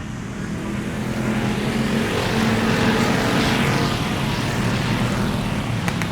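A vehicle engine running with a steady hum. It grows louder over the first two to three seconds and then eases off a little, and two sharp clicks sound near the end.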